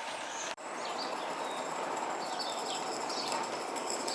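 Steady outdoor hiss with a few faint bird chirps. The sound drops out briefly about half a second in.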